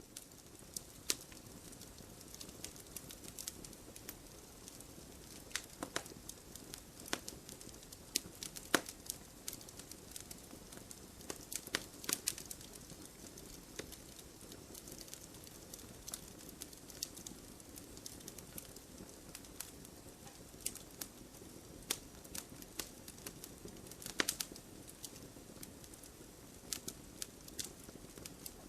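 Firewood burning: a steady low rush of flame with irregular sharp crackles and pops from the wood, a few of them louder snaps.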